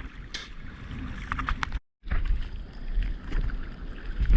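Ocean water sloshing and splashing against a surfboard and a close action-camera microphone, with wind buffeting the mic as a low rumble. The sound cuts out completely for a moment about two seconds in, and a heavier low thump of water comes near the end.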